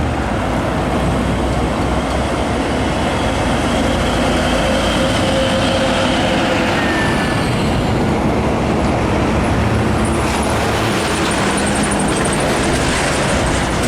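Heavy road traffic with trucks passing close by: a loud, steady rush of engine and tyre noise.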